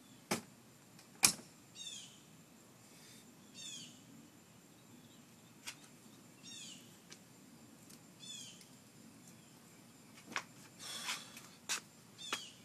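Sharp knocks and thumps of belongings being shoved and packed into a truck, the loudest about a second in. A bird calls a short falling chirp every couple of seconds throughout.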